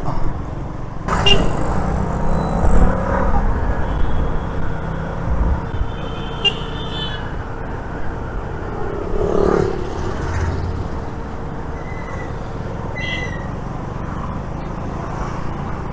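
KTM Duke 200 motorcycle riding through road traffic: a steady engine and wind rumble. Short vehicle horn toots come about six seconds in and again near thirteen seconds.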